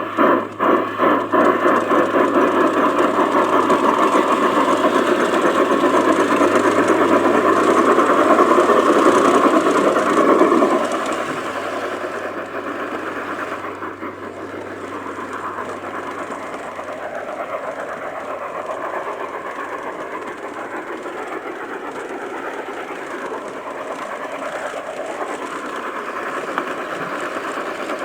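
G-scale model train running on garden track, its wheels rattling over the rails close up. It is louder for roughly the first ten seconds, then settles to a quieter, steady running.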